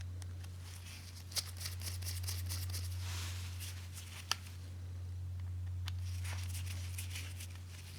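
Small metal parts and tools being handled, with light rustling and a few sharp clicks, over a steady low hum.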